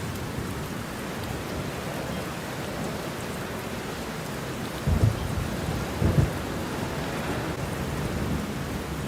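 Steady rain falling in a thunderstorm, with two short, deep thunder rumbles about five and six seconds in.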